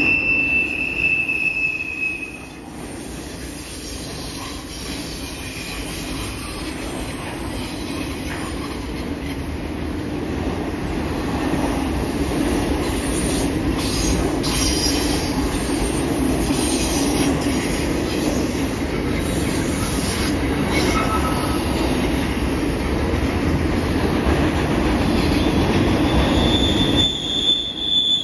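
Double-stack container well cars of a freight train rolling past on a curve: a steady rumble and clatter of steel wheels on rail. A high steady wheel squeal sounds at the start and again near the end.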